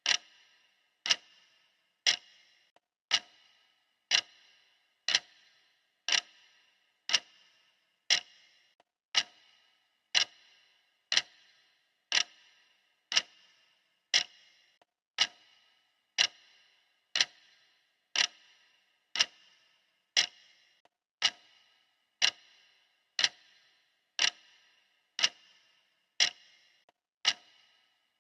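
Steady clock ticking, one sharp tick each second, each with a short ringing tail.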